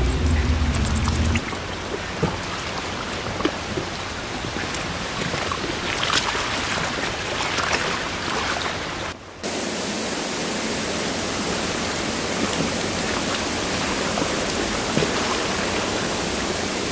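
Steady rushing of flowing water in a forest stream, with a low rumble over the first second or so. The sound cuts briefly about nine seconds in and carries on as an even rush.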